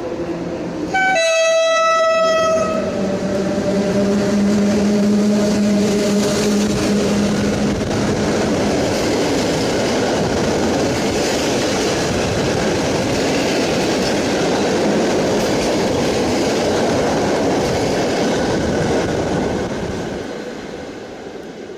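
EP07 electric locomotive sounding its horn once, one long blast about a second in: the Rp1 'attention' signal given on departure. Then the locomotive and its coaches run with wheel clatter, the noise fading near the end.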